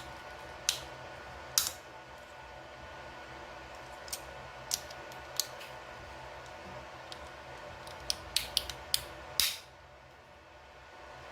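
Irregular sharp clicks and taps of small hard objects being handled, a quick run of them near the end, over a steady background hiss.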